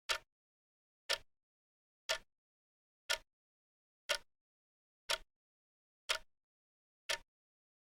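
Wrist watch ticking steadily, one crisp tick each second.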